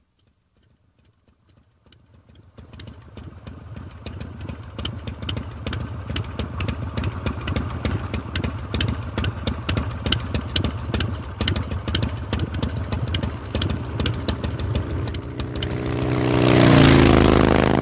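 Motorcycle engine running with a rapid, uneven beat, fading in and growing louder, with a louder surge near the end.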